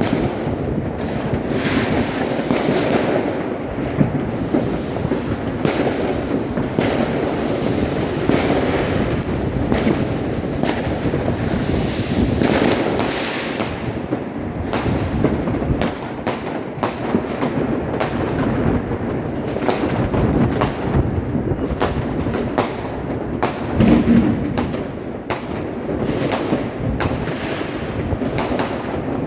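Fireworks going off without a pause: many sharp bangs and crackles, often several a second, overlapping over a steady rumble, with one louder bang a little after the middle.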